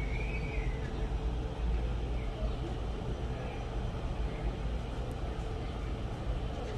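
Steady low outdoor rumble, with a brief faint high chirp near the start.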